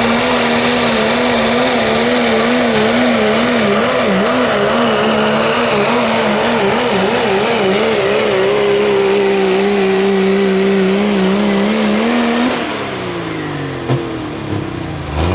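Diesel 4WD pulling truck's engine at full throttle under load. The engine note wavers rapidly up and down for several seconds, then holds steady, and falls away in pitch and loudness about twelve seconds in.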